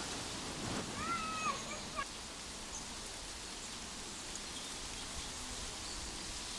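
Steady hiss of rain, with a brief high animal call, rising then falling, about a second in.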